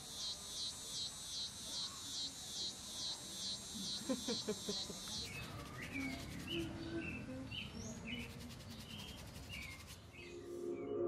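Faint outdoor nature ambience. An insect chirps in an even pulse of about two to three chirps a second for the first half, and then short bird calls come at scattered intervals.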